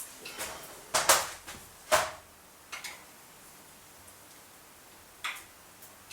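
A few sharp metallic clinks and knocks from handling tools and metal parts on a milling machine while its table gib is being adjusted. There is a quick double knock about a second in, the loudest at about two seconds, a lighter one just before three seconds and one more near the end.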